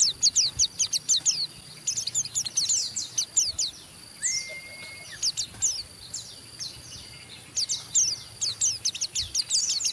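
White-eye (pleci) singing in the 'ngeriwik' style: rapid runs of thin, high, down-slurred chirps in bursts, with a short lull past the middle. A single short steady whistle sounds a little over four seconds in.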